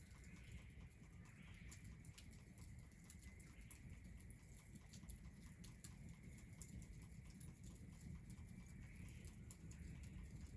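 Faint crackling of a wood fire: scattered small irregular pops over a low, steady background hiss.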